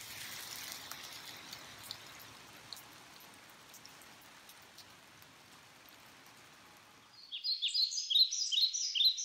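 Faint outdoor ambient hiss with a few light ticks, then about seven seconds in a bird chirping in quick high, downward-sliding notes, which become the loudest sound.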